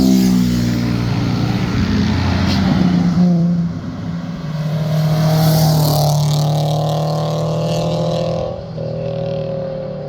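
Performance car's engine and exhaust under hard throttle as it passes by, the engine note holding fairly steady. It is loudest around the middle and drops off about eight and a half seconds in.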